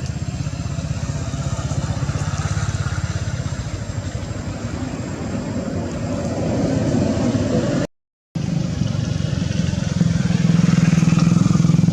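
A motor vehicle engine, likely a motorcycle, running steadily with a low pulsing rumble. The sound cuts out for a moment about eight seconds in, then comes back louder near the end.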